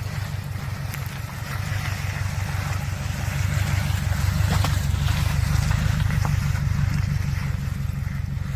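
Off-road vehicle engine running as it drives a rough trail, getting louder a few seconds in, with occasional knocks and rattles.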